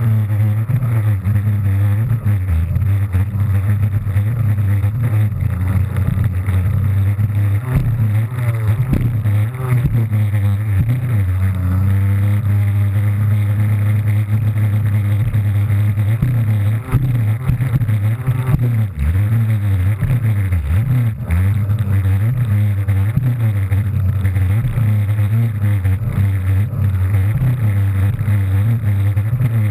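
Kawasaki JS300 stand-up jet ski's two-stroke engine running hard, its pitch rising and falling again and again as the throttle is worked over the waves.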